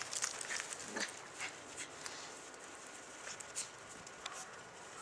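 A dog making sounds in snow: a string of short, sharp noises, several a second, with a brief falling sound about a second in.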